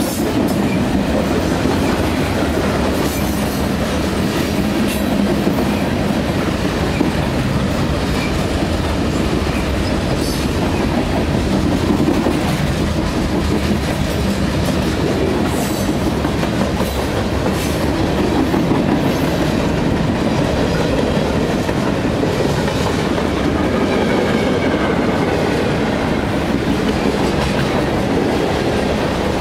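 Freight train cars rolling past at close range: a steady, loud rumble of steel wheels on rail, broken by scattered sharp clickety-clack knocks.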